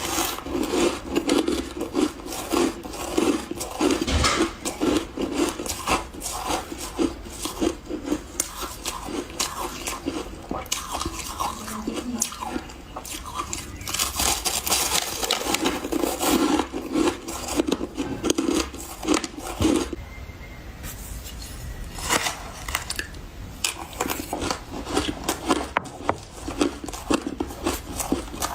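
Close-up chewing of mouthfuls of refrozen powdery ice: a dense run of soft, crackly crunches, easing off briefly about two-thirds of the way through.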